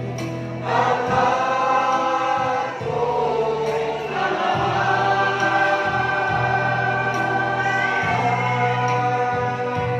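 A choir singing a gospel song in harmony, in long held notes with short breaks between phrases.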